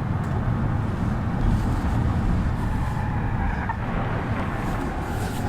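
Minivan on the move: steady low rumble of engine and road noise.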